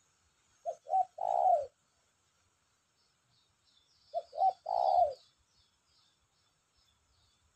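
Spotted dove (tekukur) cooing twice, each phrase two short notes followed by a longer falling note: a newly caught bird already calling freely. Faint high chirps of small birds behind.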